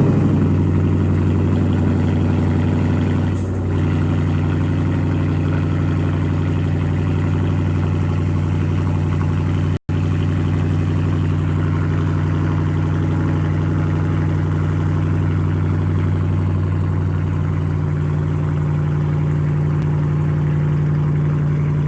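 2019 Dodge Challenger R/T's 5.7-litre HEMI V8, exhaust with a mid-muffler delete, running at a steady, loud idle just after a cold start. There is a brief audio dropout about ten seconds in.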